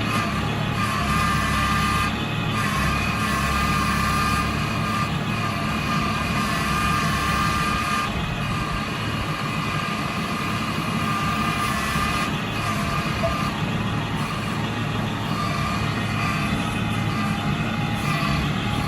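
Eicher 650 tractor's diesel engine running steadily while it works a backhoe loader; the deepest part of the drone eases off about four seconds in.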